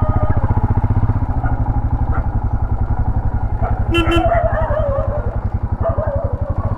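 Royal Enfield Himalayan 411's single-cylinder engine thumping steadily at low road speed. About four seconds in there is a sharp click and a brief pitched sound, followed by wavering higher-pitched sounds.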